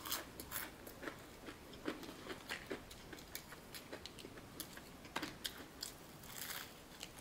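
Close-up chewing and crunching of crispy fried chicken, heard as scattered short crunches and wet mouth clicks, with a bite into the crust about six seconds in.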